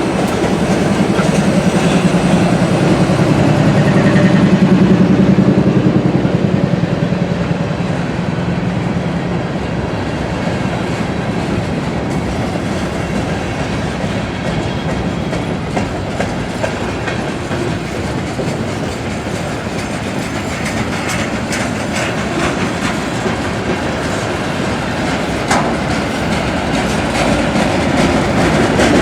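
Freight train rolling past: a strong low engine hum for the first several seconds, then the steady rumble and clickety-clack of the cars over the rail joints.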